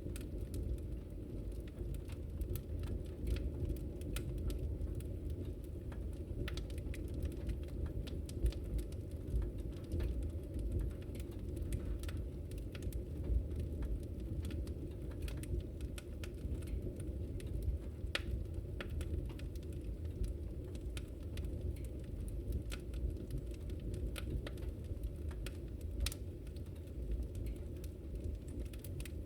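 Wood fire in a fireplace crackling: frequent small pops and snaps at irregular intervals over a steady low rumble of the burning fire.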